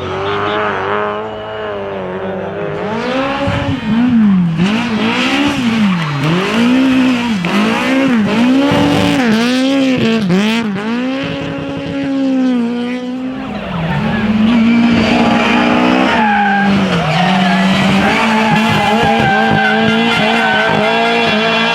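Drift car engine revving up and down about once a second, its tyres squealing as it slides. For the last several seconds it holds steady high revs.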